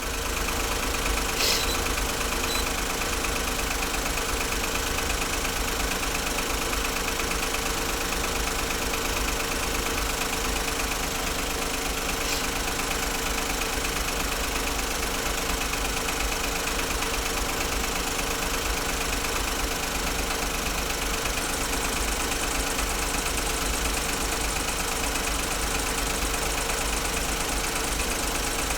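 A 2008 Smart ForTwo's 1.0-litre three-cylinder petrol engine idling steadily while the car is being diagnosed for a misfire. There is one light click about a second and a half in.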